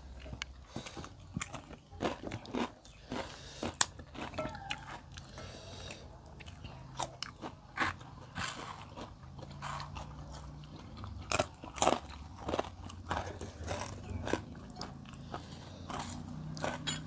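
Crunching and chewing of crisp crackers eaten by hand with the meal, close to the microphone: irregular sharp crunches between quieter stretches of chewing.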